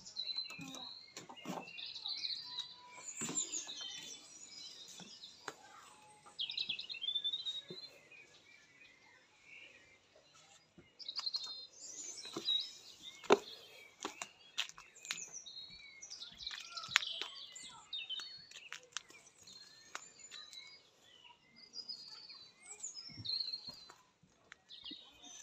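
Several songbirds singing and chirping in short trills and calls, with scattered sharp clicks and knocks, the loudest about halfway through.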